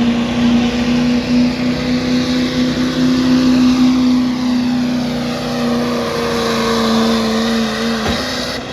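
Diesel pulling truck's engine held at high revs under full load, a loud steady drone that barely changes pitch, then cuts off abruptly near the end.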